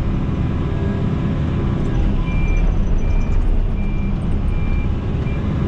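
Excavator's diesel engine working hard under load as the machine pushes against a tree's roots, with a faint short high beep repeating about five times in the middle.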